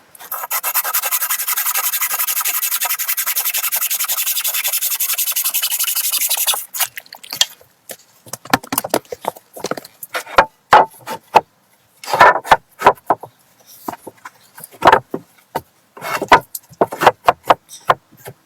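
Steady rapid scraping, as of something rubbing or rasping on wood, for about six and a half seconds. Then scattered shorter scrapes and knocks.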